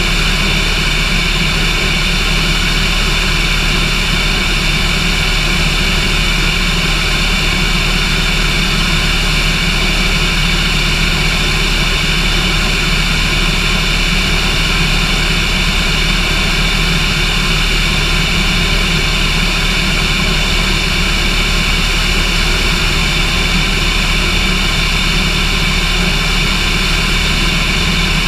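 Cessna light aircraft's engine and propeller droning at a steady, unchanging pitch and level in flight.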